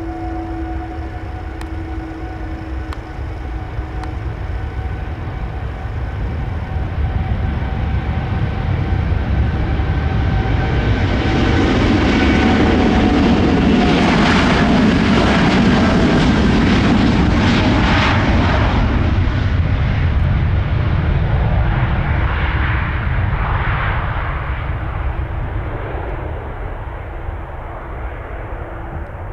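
Boeing 787-9 jet departing: the engines' whine gives way to a swelling jet roar that peaks about halfway through, then fades as the aircraft climbs away.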